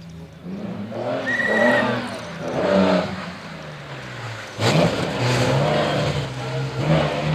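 Historic rally car engine revving hard and dropping back several times as it is driven through a stage, with a sudden loud surge about four and a half seconds in.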